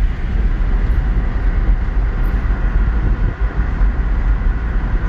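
Steady low rumble of a ute driving along a road, heard from inside the cab: engine, tyre and road noise with no change in pace.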